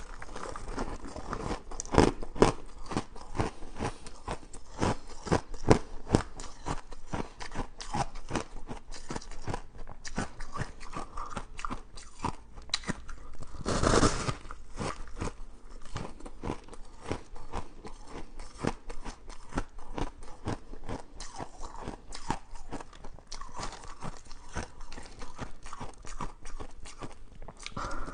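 Close-miked crunching and chewing of flavoured shaved ice: a dense, irregular run of crackly crunches, with a louder bite about halfway through.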